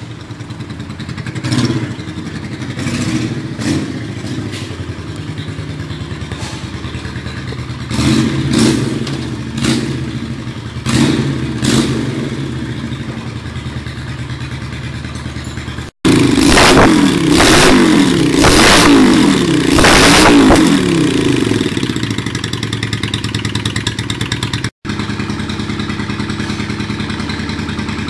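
Yamaha Virago 535 V-twin running on direct, unmuffled exhaust: idling with several short throttle blips. After a cut about halfway through it revs up and down more loudly for about five seconds, then settles back to a steady idle.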